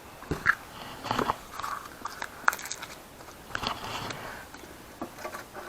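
Handling noises as split raw crucian carp are laid out on a smoker's wire grate: a run of irregular clicks, taps and wet, crackly rustles, the sharpest about half a second and two and a half seconds in.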